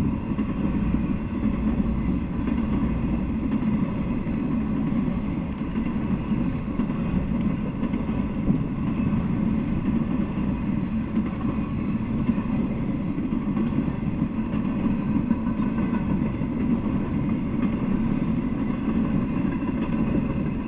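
Freight train cars rolling past on the rails, a steady low rumble of steel wheels on track.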